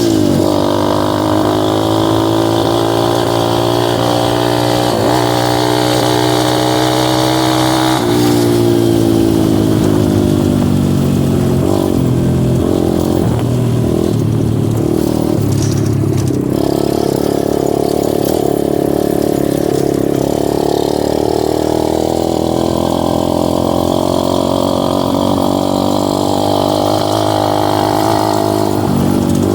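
Dirt bike engine running under way on a trail, its pitch rising and falling with the throttle, with clear changes in engine note about 8 and 16 seconds in.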